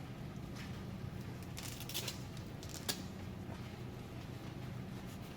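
A few light clicks and taps from hand work on the truck's front hub and brake drum, with one sharp click about three seconds in, over a steady low hum.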